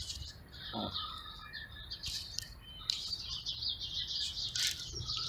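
Small birds chirping, with a fast run of repeated high chirps starting about halfway through.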